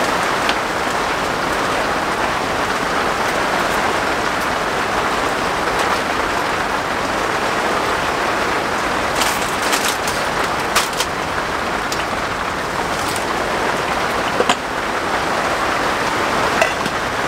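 Steady rain pattering on a polycotton (TC) tent fly, heard from inside the tent. A few sharp clicks and rustles cut through it around the middle and again near the end.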